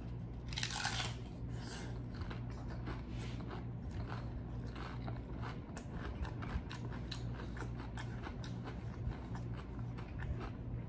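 Close-miked chewing of crunchy food, with many sharp crunches coming quickly one after another, over a steady low hum.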